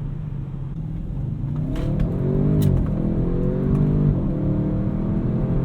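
Audi RS6 Avant's twin-turbo V8 heard from inside the cabin, speeding up from a steady cruise: the engine note rises, drops at an upshift a little under three seconds in, rises again and drops at a second upshift about a second later. Two sharp clicks come just before the first upshift.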